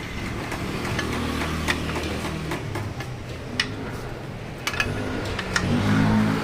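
Scattered sharp clicks and light taps from hand work on a motorcycle's rear disc brake caliper during a brake pad change, about seven in all, over a low steady hum.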